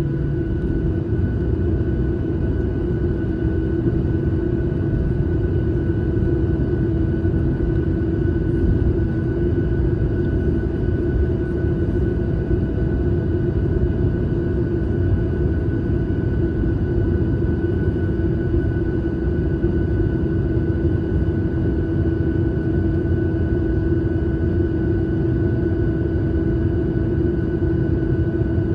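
Steady rumble of airflow and engines heard inside an airliner cabin in flight, with a constant hum over it.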